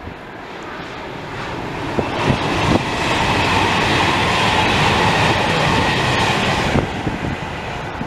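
A train passing by, its noise building over about three seconds, staying loud, then dropping off sharply about seven seconds in.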